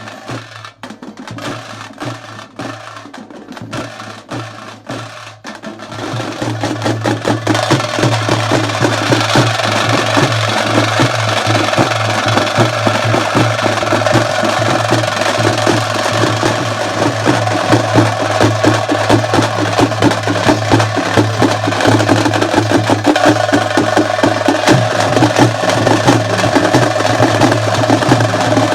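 Folk drum ensemble playing: scattered drum strokes at first, then about six seconds in a fast, dense, continuous drumming that stays loud.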